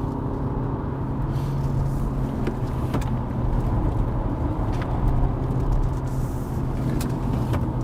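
Hyundai Avante (CN7) with its 123-hp engine heard from inside the cabin while being driven through a downhill corner: a steady low engine and road drone, with a few faint short ticks.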